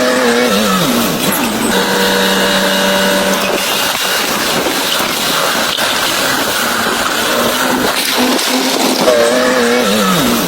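Heavy earthmoving machinery running, with a loud whine that slides up and down in pitch and holds steady in between.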